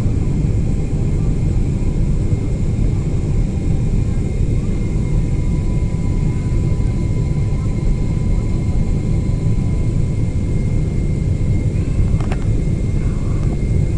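Steady low rumble of a Boeing 777-300ER's GE90 jet engines and airflow heard inside the cabin, with faint steady whining tones over it. A brief click comes near the end.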